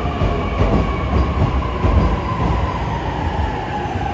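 Electric commuter train running along a station platform: a heavy rumble of wheels on rail, with a whine that slowly falls in pitch.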